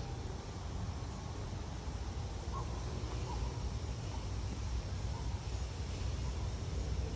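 Outdoor garden ambience: a steady low rumble with a few faint, short chirps in the middle.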